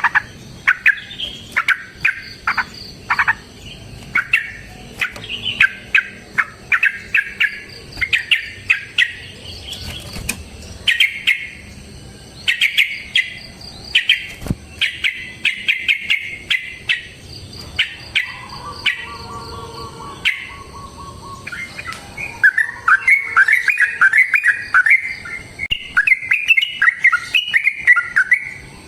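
Yellow-vented bulbul singing loud, rapid chattering phrases of sharp notes, ending in a long, fast warbling run.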